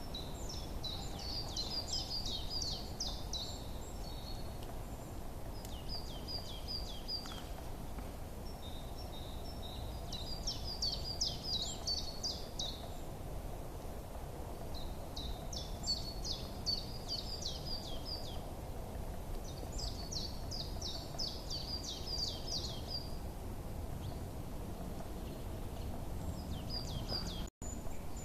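Small songbirds chirping in bursts of quick, rapid high notes a few seconds long, repeating every few seconds over a steady low background hiss. A split-second gap of near silence cuts the sound near the end.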